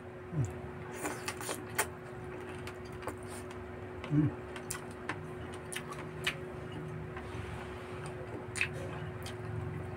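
Eating sounds: irregular wet clicks of chewing and lip-smacking as a man eats grilled barbecue and rice with his hands, with one louder burst about four seconds in, over a steady low hum.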